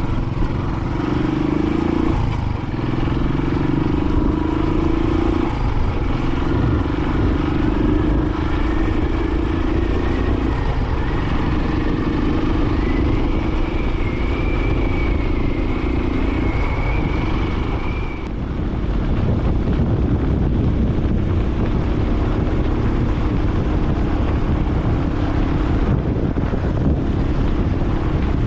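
Royal Enfield Classic 500's single-cylinder engine running steadily as the motorcycle is ridden along, with a brief dip in the sound a little past halfway.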